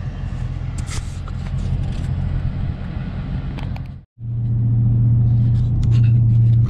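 Dodge Challenger Scat Pack 392's 6.4-litre HEMI V8 running at a steady low drone while driving. The sound drops out for a moment about four seconds in, then comes back louder.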